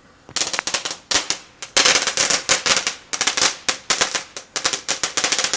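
Fireworks going off: a rapid, uneven run of sharp cracks and bangs, several a second, starting about a third of a second in.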